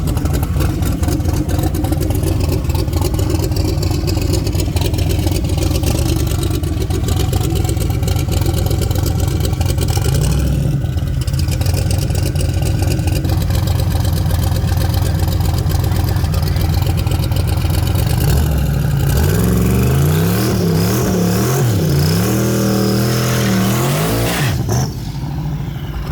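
High-performance V8 car engine running hard at high power. Late on, the engine note swings rapidly up and down in quick revs before a brief drop in level.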